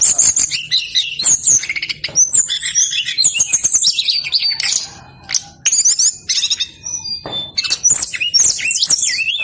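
Brown-chested jungle flycatcher singing vigorously: rapid high trills and warbled phrases in quick succession, with sharp clicks between them and a brief lull about halfway through.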